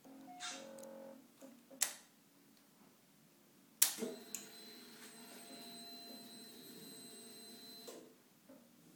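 Triumph Daytona 675 with a flat battery, failing to start. A sharp click is followed by a faint steady electrical hum with a thin high whine for about four seconds, ending with another click. The starter motor does not crank because the battery voltage is too low.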